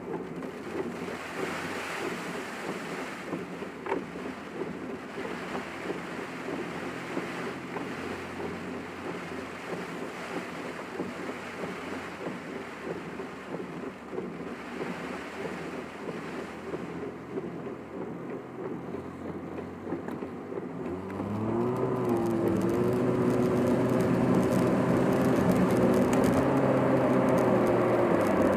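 Car driving, heard from inside: steady road and wind noise. About 21 seconds in, it grows louder as an engine drone comes in, rises briefly in pitch and then holds steady.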